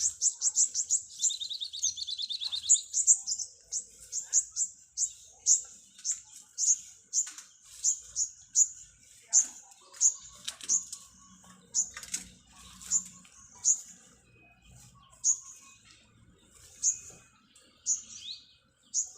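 Small birds chirping: a long run of short, high chirps, one or two a second. A rapid trill comes in about a second in and lasts about a second and a half.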